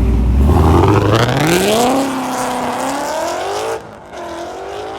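Car engine accelerating away under throttle: a deep rumble turns into a note climbing steadily in pitch, then the sound drops sharply about four seconds in and carries on fainter.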